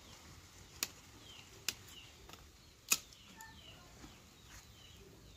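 Faint, short bird chirps with a few sharp clicks or snaps, the loudest about three seconds in.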